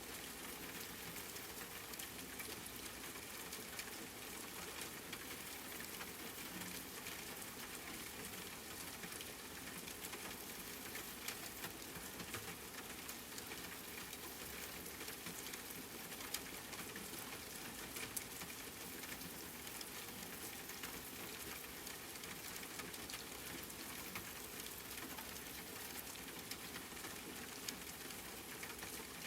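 Steady rain falling: an even hiss of rain with scattered individual drops ticking through it, a few slightly louder than the rest.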